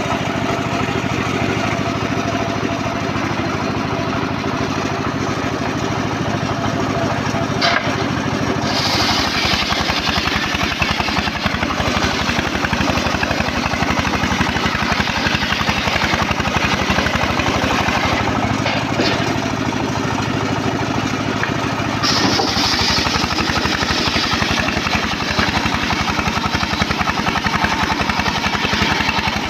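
Engine of a homemade circular saw rig running steadily. A harsher, higher noise joins it for a few seconds about nine seconds in, and again from about 22 seconds to the end.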